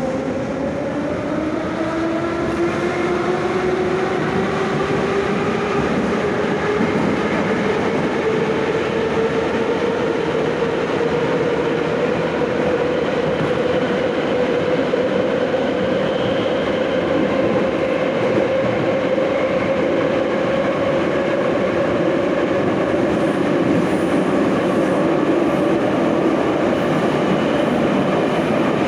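Moscow Metro 81-717/714 ('Nomernoy') subway train under way, heard from inside the car: its traction motors whine, rising in pitch over the first several seconds as the train accelerates, then holding at a steady pitch at running speed over a constant rumble of the wheels on the rails.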